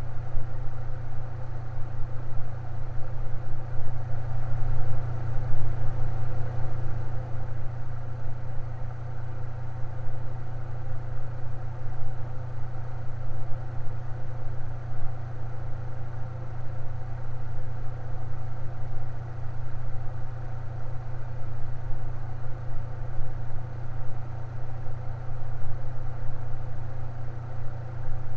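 Electric fan running steadily: an even, low motor hum with a fainter whir above it.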